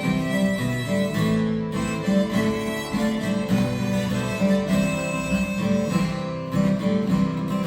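Music: a guitar playing a melody, with a sustained higher instrumental line.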